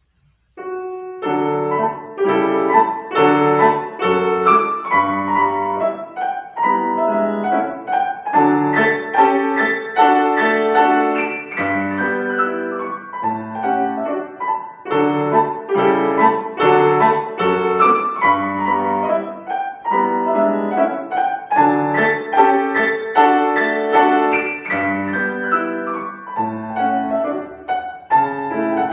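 Solo piano playing a classical piece, starting about half a second in with a steady flow of struck notes and chords.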